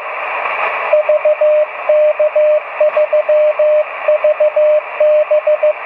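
Morse code (CW) on an amateur radio receiver: a single steady tone keyed in quick dots and dashes, over steady hiss of band noise.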